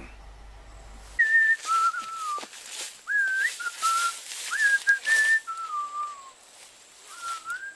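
A person whistling a slow tune. A single clear pitch steps and slides between notes in short phrases with brief pauses, starting about a second in.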